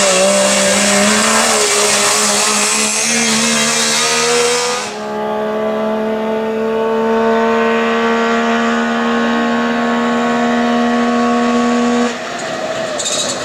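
Wartburg 311 rally car's three-cylinder two-stroke engine accelerating hard, its pitch climbing for about five seconds. The sound then changes abruptly to a steadier drone as the car approaches, rising slowly in pitch, and changes abruptly again near the end.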